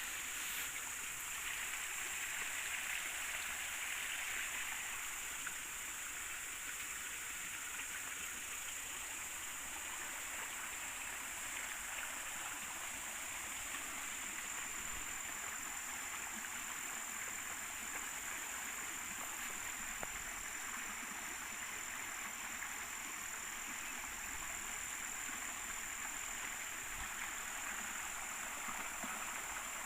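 River water flowing and rushing steadily over stones, with a thin, steady high-pitched tone above it.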